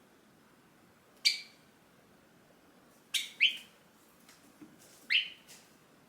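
Java sparrow giving short, sharp chirping calls: one about a second in, a quick pair about three seconds in, and one about five seconds in.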